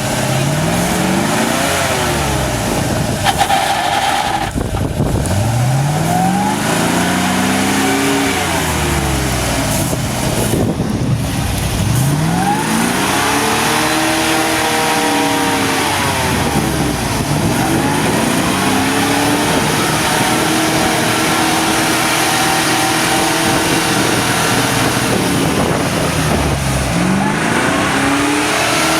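GAZ-66 truck's V8 petrol engine revving up and dropping back again and again, about six times, as the truck struggles through creek mud.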